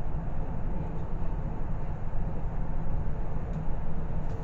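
Steady low rumble and running noise of a moving train, heard from inside the passenger car.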